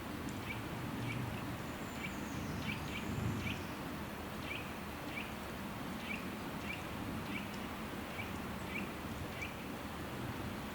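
A small bird repeating a short, sharp chirp roughly every half to two-thirds of a second, stopping about a second before the end, with a faint, thin, higher call arcing over it once around two to three seconds in. Beneath it runs a steady low rush of outdoor ambience.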